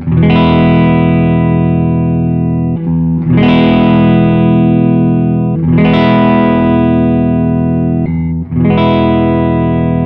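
Electric guitar, a Gibson Les Paul with PAF-style humbucker pickups, playing four strummed chords, each left to ring for about two and a half seconds before the next.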